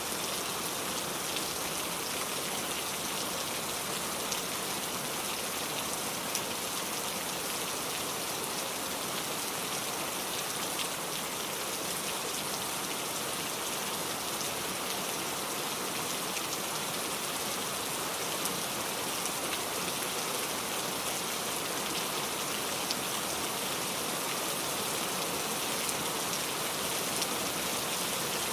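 Steady rainfall, an even hiss of rain with scattered drops ticking on surfaces.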